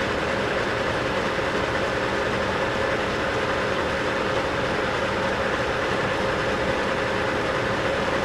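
South Bend 14½ lathe running steadily under power, with a constant hum and a steady whine, as the tool takes a 25-thou-deep turning cut.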